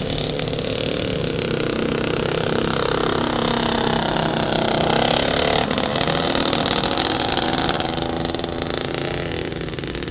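Motorcycle engine accelerating, its pitch climbing for a few seconds, a brief break just past halfway, then running on and fading toward the end.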